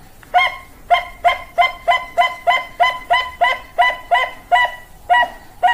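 Zebra dove (Bangkok-type perkutut) cooing: a quick run of about fifteen short, clipped notes, roughly three a second, starting a moment in.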